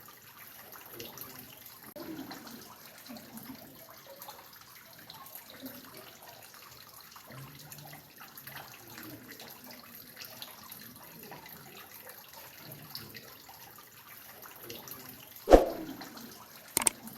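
Water dripping and trickling steadily, a soft run of small irregular drops. Near the end a single sudden loud knock, followed shortly by two sharp clicks.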